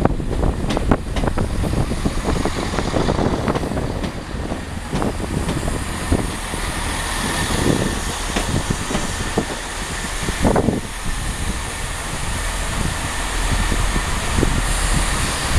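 Chiltern Railways Class 165 diesel multiple unit running in alongside the platform and slowing to a stop: a steady rumble of engines and wheels on the rails with irregular knocks, and a faint steady whine from about six seconds in.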